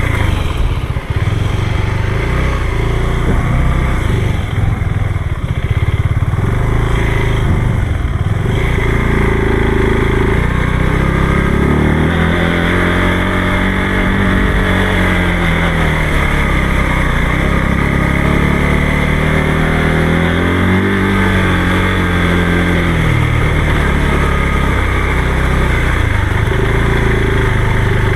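Motorcycle engine running on the move, its revs rising and then easing off twice in the second half.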